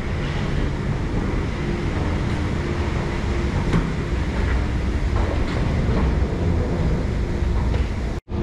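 Steady low rumble of a train at a railway station, with a faint hum and a few light clicks; the sound drops out abruptly for a moment near the end.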